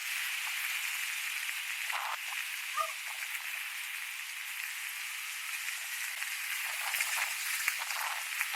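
Wind rushing over the microphone while riding an electric skateboard: a steady, thin hiss with crackling ticks and no bass.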